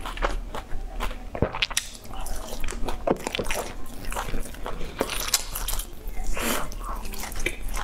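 Close-miked biting and chewing of grilled sausages pulled off a skewer, an irregular run of short mouth clicks and bites.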